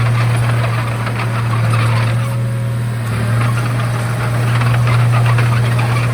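Komatsu D31A crawler bulldozer's diesel engine running steadily under load, with a rapid rattling clatter over the low engine hum.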